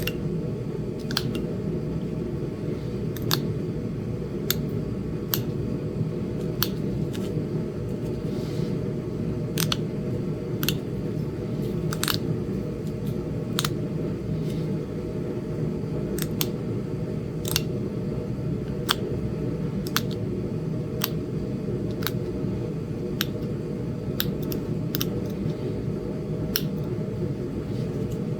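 Knapping a small Flint Ridge chert bird point: sharp, irregular clicks, roughly one a second, as tiny flakes snap off the edge. A steady low hum runs underneath.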